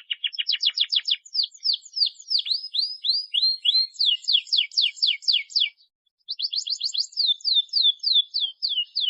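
Domestic canary singing: fast trills of rapidly repeated notes running into downward-sweeping whistles, in two long phrases with a short break about six seconds in.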